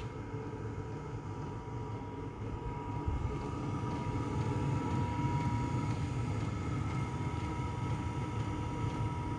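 Diesel air heater running steadily: a low drone with a thin, steady whine, a little louder from about three seconds in.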